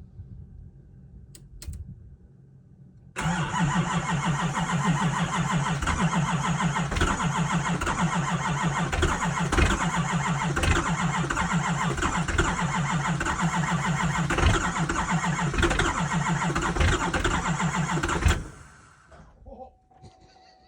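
LB7 Duramax 6.6 L V8 turbodiesel cold-starting unplugged: after a couple of faint clicks it fires abruptly about three seconds in and runs loudly with an uneven pulsing beat, then stops about fifteen seconds later, dying away over about a second.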